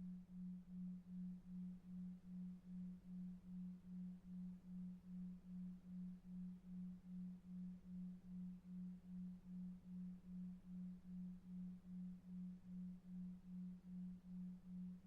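Soft, low tone pulsing on and off about two and a half times a second over a faint brown-noise hiss: a 2.5 Hz delta-wave pulsed tone for sleep.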